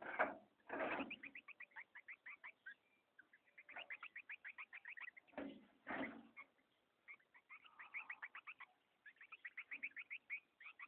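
Green-winged saltator (trinca-ferro) chicks begging to be fed: runs of short chirps at about seven or eight a second. The runs are broken by a few brief flutters or rustles near the start and around the middle.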